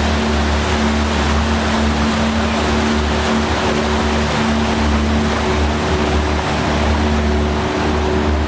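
Canal tour boat's motor running steadily: a low drone with a steady hum, over an even rush of water and air noise.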